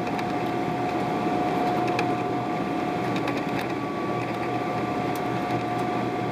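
Steady cabin noise inside a Boeing 777-300ER airliner: an even rush of air with a steady whine holding one pitch, and a few faint clicks or rattles.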